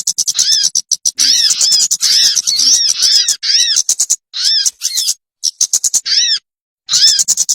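Recorded bird lure call playing: a fast run of short, arched chirping notes, about five to six a second. The run breaks off with abrupt dead-silent gaps a few times in the second half, as in an edited or looped track.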